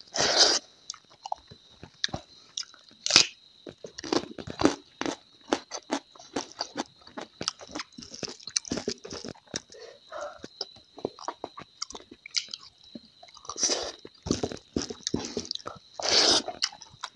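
A person chewing and crunching mouthfuls of food right at a clip-on microphone: many short, irregular crunches and mouth sounds, with a few louder bites about three seconds in and near the end.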